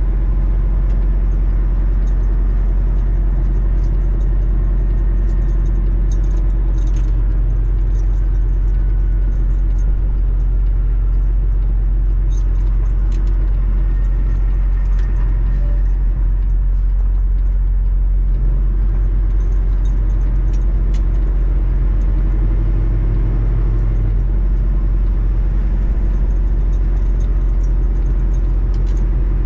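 Semi truck's diesel engine drone heard inside the cab: a steady, loud low rumble, with scattered light rattles and clicks.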